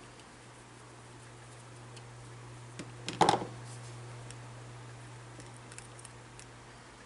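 A short clatter of sharp clicks about three seconds in, with a few faint ticks, over a steady low hum.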